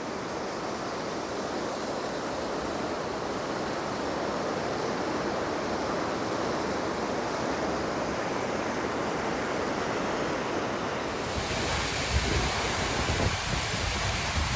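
Waterfall close by: a steady, dense rush of falling water. About eleven seconds in, wind starts buffeting the microphone over the water noise.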